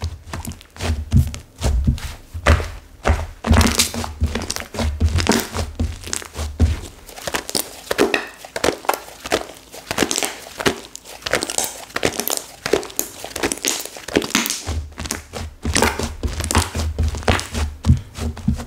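Stiff slime with clay mixed in that has hardened into crunchy bits, worked by hand: irregular crackling and crunching, with dull thunks as it is pressed and slapped down, mostly in the first several seconds and again near the end.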